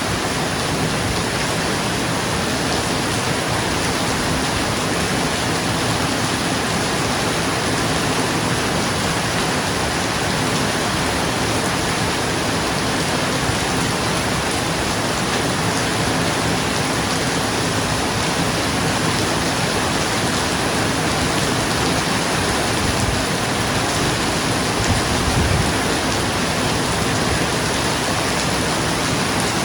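Steady heavy rain falling on a roof, a dense, even hiss. About 25 seconds in, a brief low swell rises under it.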